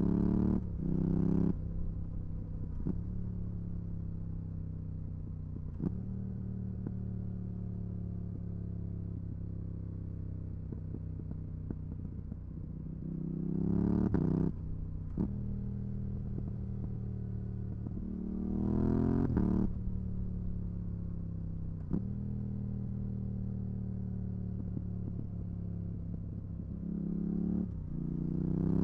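Yamaha R7's 689 cc parallel-twin engine running through a full MIVV GP Pro exhaust with its dB-killer fitted. The revs climb briefly and then drop off sharply four times, with a few sharp cracks in between.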